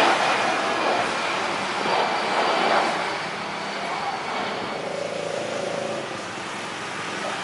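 Rushing engine noise of a passing vehicle, loud at first and fading off over the second half, with a few faint steady whining tones in it.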